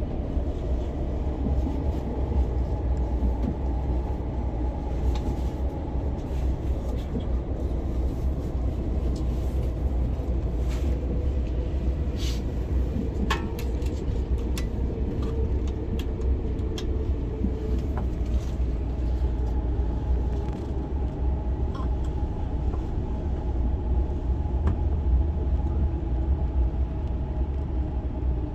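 Passenger-cabin running noise of an SRT high-speed train, an SR 120000 series EMU, under way: a steady low rumble with faint steady tones over it and occasional light clicks.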